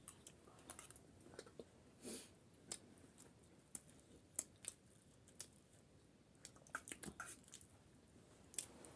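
Faint, sporadic chewing and crunching of pani puri: scattered soft mouth clicks and crisp crunches, with a denser run of them about seven seconds in.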